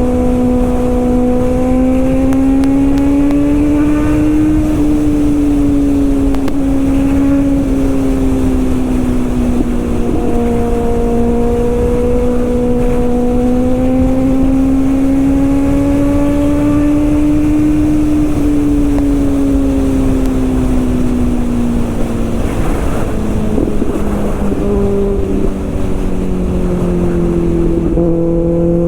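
Kawasaki Ninja ZX-6R inline-four engine running at steady high revs under way, its pitch rising and falling gently, with wind rushing over the microphone. Near the end the engine pitch drops twice in steps as the bike slows.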